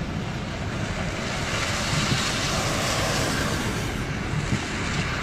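Wind noise on the microphone during a snowstorm: a steady rushing hiss with uneven low rumbling.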